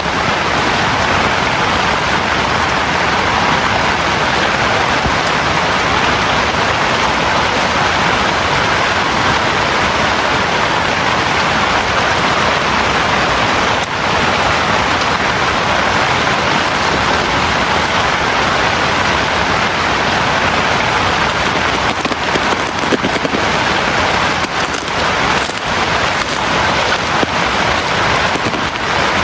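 Heavy rain falling steadily in a downpour, an even, loud hiss.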